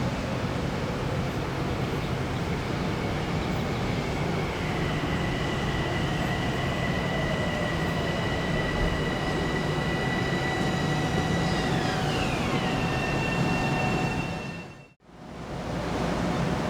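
Passing train: a steady rolling rumble under a high whine of several steady tones that step down in pitch about four seconds in and glide lower about twelve seconds in. The sound briefly fades out and back in near the end.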